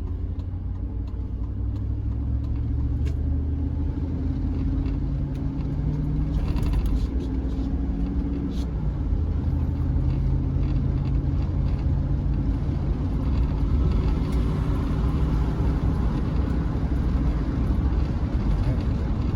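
Chevrolet C10 pickup on the move heard from inside the cab: steady engine drone and road rumble. The engine note drops a little about nine seconds in, then slowly climbs again.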